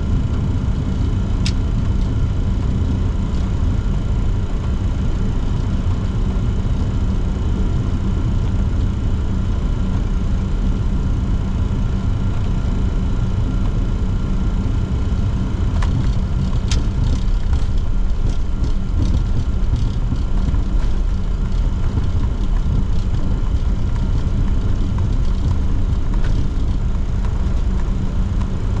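Steady cockpit noise of a Bombardier Challenger 604 taxiing: its General Electric CF34-3B turbofans and air conditioning hum over a low rumble. A few sharp clicks come about a second in and again around the middle, followed by a short run of fainter ticks.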